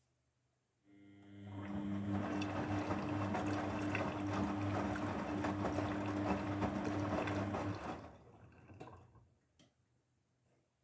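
Grundig washing machine moving water, a rushing flow over a low electric hum that starts about a second in and stops near eight seconds, followed by a few brief gurgles.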